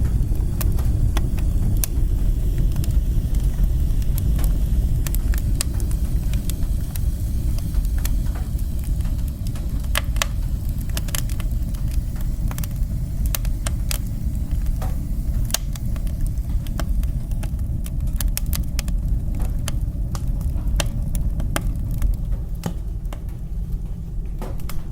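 Fire burning in a fireplace: a steady low rumble of flames with sharp crackles and pops scattered throughout, most frequent around the middle.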